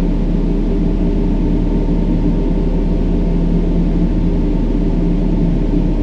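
Steady brown noise: an even, deep rumbling hiss, with a few low steady tones humming underneath.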